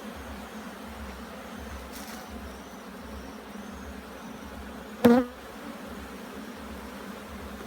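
Honey bees buzzing around an open hive, a steady hum. About five seconds in, a brief, much louder buzz with a wavering pitch cuts in, as of a bee close to the microphone.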